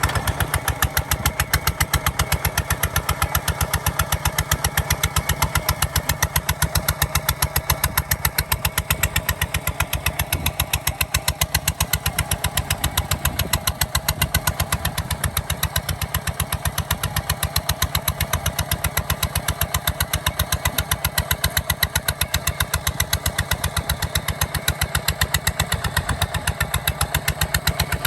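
Kubota ZT 155 DI single-cylinder diesel engine running steadily, with a fast, even exhaust beat.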